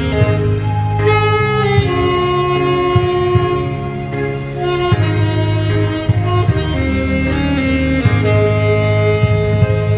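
Saxophone playing a slow melody in long held notes over a recorded accompaniment with a steady bass and a regular drum beat.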